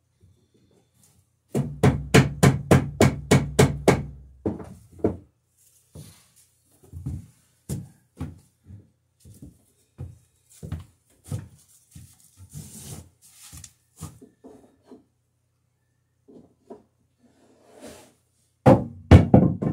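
A hand beading tool (scratch stock) with a steel-screw cutter is scraped in quick strokes along a wooden boat rail to cut a bead. A fast burst of about ten sharp strokes comes a couple of seconds in. Scattered lighter knocks and scrapes of wood handling follow, then another loud cluster of strokes near the end.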